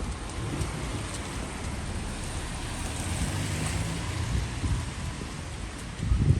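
Steady rain on a city street, with a vehicle passing on the wet road around the middle, its tyre hiss swelling and fading.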